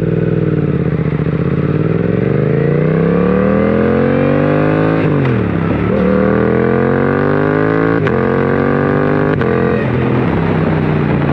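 Suzuki GSX-8S's 776 cc parallel-twin engine through a full M4 exhaust, under acceleration. The revs climb steadily, drop sharply at a gear change about five seconds in, then climb again, with two brief breaks later that look like further shifts.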